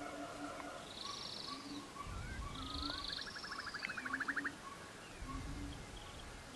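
Nature soundscape of birds chirping: repeated high buzzy chirps, a fast trill about halfway through, and short low calls recurring every second or so, over a faint low rumble.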